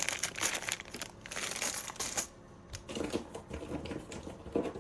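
Plastic packaging crinkling as it is handled, dense for about the first two seconds, then a few light knocks and rustles as items are moved.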